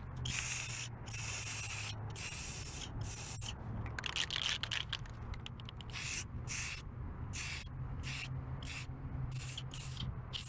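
Aerosol spray can of clear coat hissing in about a dozen short bursts, some well under half a second and some about a second long, over a steady low hum. The tip is blowing mostly air and not enough product, which the painter blames on a bad can and a makeshift tip.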